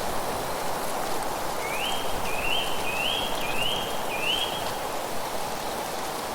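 A bird sings a phrase of five short notes, each sliding upward, about one and a half seconds in. The phrase ends near five seconds in. Under it runs a steady rush of wind through leaves.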